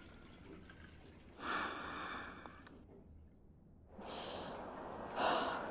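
A person breathing heavily: a few loud breaths a couple of seconds apart, the loudest near the end.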